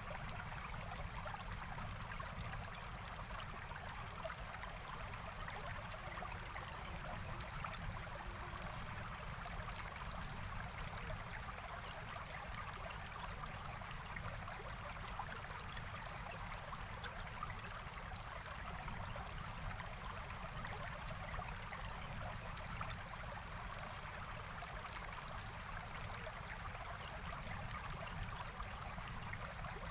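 Forest stream flowing: a steady, even rush of running water that does not change.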